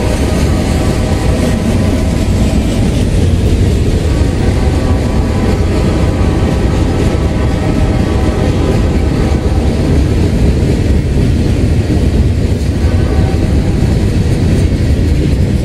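Freight train cars rolling past on the rails: a steady, loud rumble and rattle of steel wheels and car bodies, heaviest in the low end.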